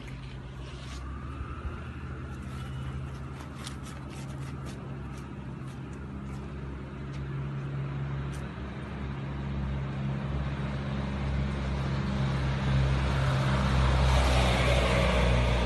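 A motor vehicle's engine runs with a steady low hum. Traffic noise swells louder over the last few seconds, like a vehicle drawing close.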